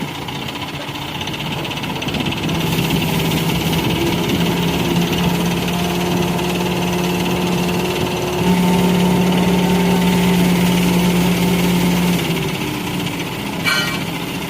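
An engine running steadily with a low, even hum that grows louder about eight and a half seconds in. A brief sharp click comes near the end.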